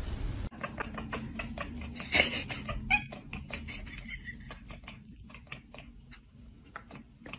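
A cat chattering: quick, irregular clicking with a few short chirps, loudest about two to three seconds in, then tailing off. This is the excited chatter of a cat fixed on prey it can see but cannot reach.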